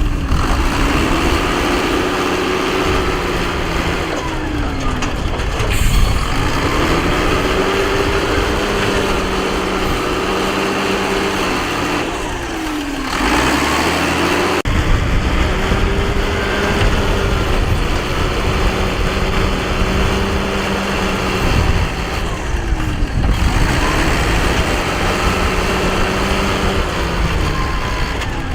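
Heavy diesel engine of construction equipment running under load, its pitch repeatedly held high, then dropping and climbing again in cycles every eight or nine seconds.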